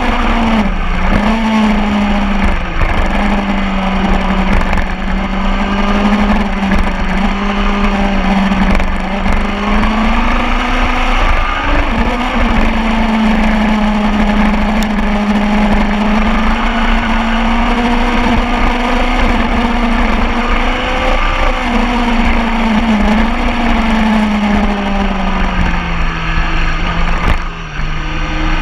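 Superbike engine running hard at high revs on a racetrack, its pitch holding mostly steady and dipping briefly a few times, with a bigger drop in revs near the end.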